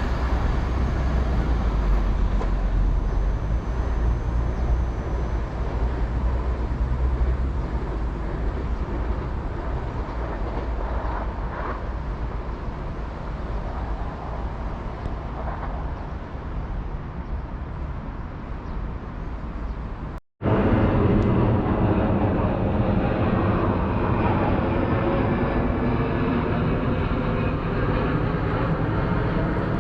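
A train running past on the track, its low rumble strong for the first few seconds and then easing off. After an abrupt cut about two-thirds of the way through, the steady rush of another passing train.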